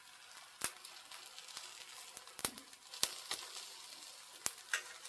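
Wood embers in a fireplace crackling, with about six sharp separate pops over a faint steady sizzle from the chicken roasting on a spit above them.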